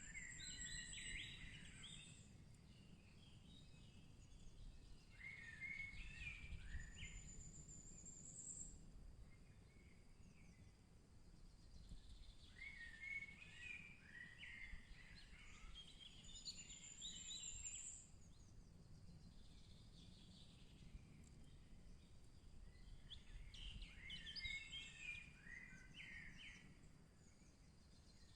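Songbirds singing faintly: a thin, high whistle that rises and a quick twittering phrase lower down, each repeated every several seconds, over a low, steady background rumble.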